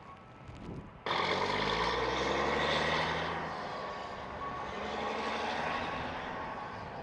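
A heavy truck runs close by: its engine and a loud rush of road and snow noise start abruptly about a second in. The engine note fades after a couple of seconds while the rushing noise goes on.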